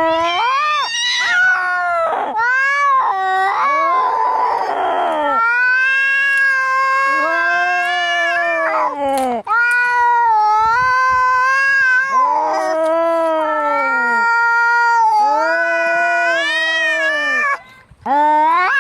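Domestic cats fighting: long, loud yowling caterwauls that rise and fall in pitch, at times two voices howling over each other. There is a short, harsh hiss about four seconds in.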